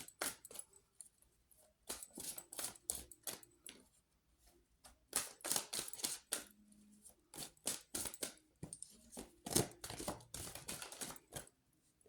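Tarot cards being shuffled and handled: quick irregular papery clicks and slaps in clusters, with short pauses between.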